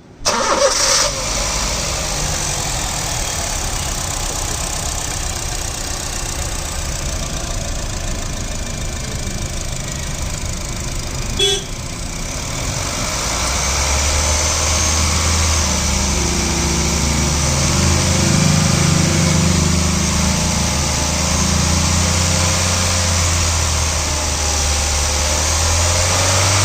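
2009 Honda City's engine idling steadily. A short click comes about eleven seconds in, and from about halfway a low steady hum joins under the engine note.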